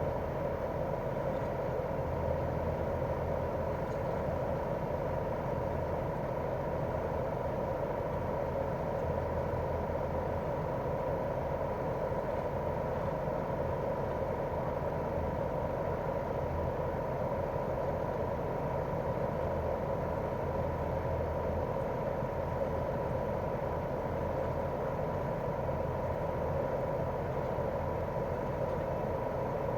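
Daikin R28RMV mini-split outdoor unit running in cooling mode: its twin-cylinder swing compressor and propeller fan make a steady low hum with a thin, steady whine above it.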